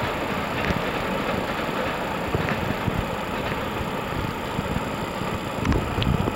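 Steady rumble and hiss of a Sotetsu electric train running away down the line, with a few low thumps near the end.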